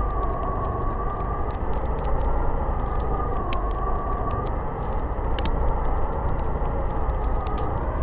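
Snowstorm wind blowing steadily, with a whistle that slowly wavers in pitch, and scattered small ticks and crackles over it.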